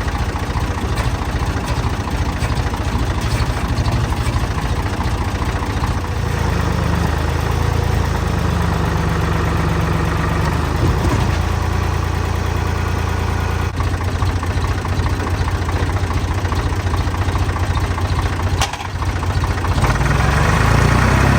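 Tractor engine running steadily while working, settling into an even, deeper drone for much of the middle and getting louder near the end.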